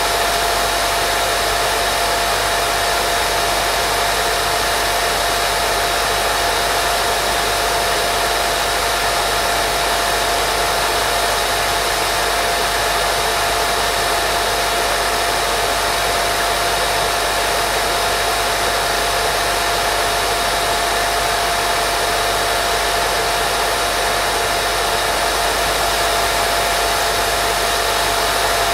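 Steady, unchanging white noise for putting a baby to sleep, a constant hiss with a thin steady tone running through it.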